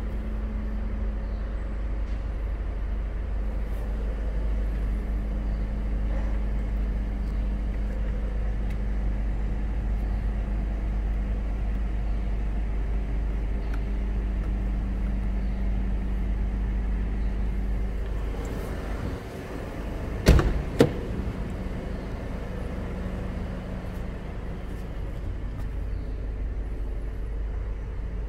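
Steady low hum of a Mercedes-Benz E250 CGI's turbocharged four-cylinder petrol engine idling, heard from inside the cabin. About two-thirds of the way through come two sharp knocks about half a second apart.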